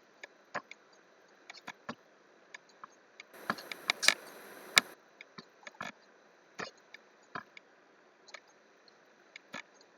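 Irregular clicks and taps of a computer mouse and keyboard, with a short rustle about three and a half seconds in.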